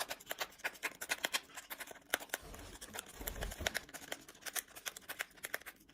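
A pet tearing open a tea bag wrapper, with rapid crinkling, rustling and irregular sharp clicks of the packaging.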